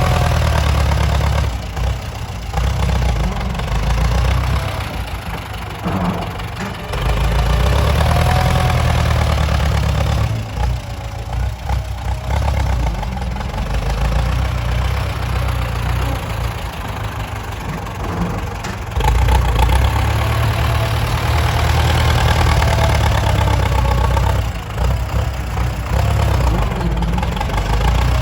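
Heavy diesel engines of dump trucks and a tractor at work. The engine sound swells and eases several times as the machines speed up and slow down.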